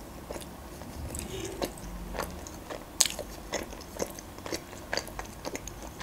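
Close-miked chewing of a mouthful of food: irregular wet mouth clicks and smacks, with one sharper click about three seconds in.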